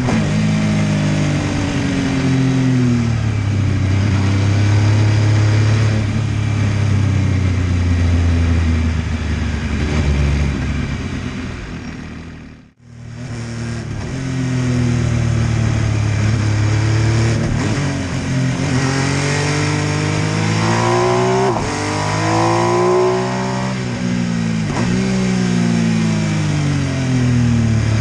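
MV Agusta F3 800's inline three-cylinder engine, revs rising and falling repeatedly under riding. The sound briefly fades out to near silence about halfway through, then comes back.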